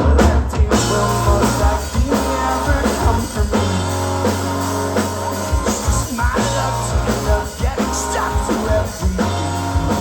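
Rock band playing: drum kit, electric guitar and bass guitar in a steady instrumental passage between vocal lines.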